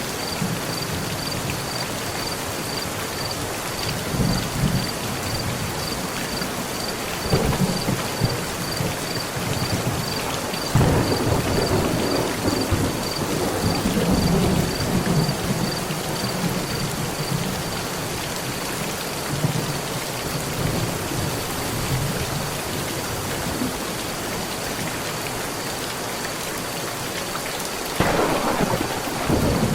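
Steady heavy rain falling on a metal roof, with thunder rolling in low rumbles several times: the longest roll comes about eleven seconds in, and another starts near the end.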